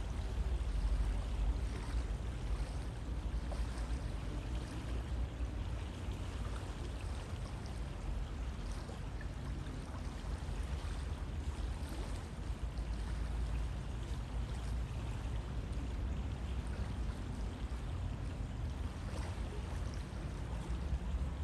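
River water flowing steadily, a continuous rushing with faint splashes and gurgles through it.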